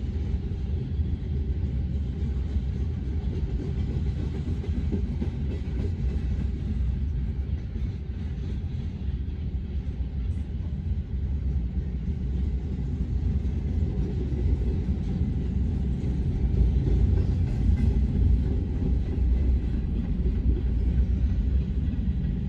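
Freight cars of a long manifest train rolling past, wheels rumbling and clattering steadily over the rails.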